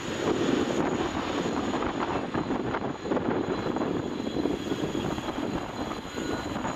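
Boeing 737-800's CFM56-7B jet engines running, a steady, low-centred jet noise with no change in pitch, as heard from a departing airliner.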